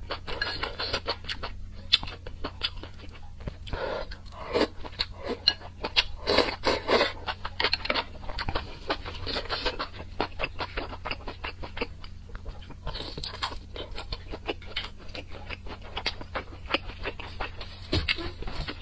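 Close-miked wet chewing, biting and crunching of food: a steady run of small mouth clicks and squelches, thicker in a few clusters, from eating spicy soup with enoki mushrooms and chewy offal.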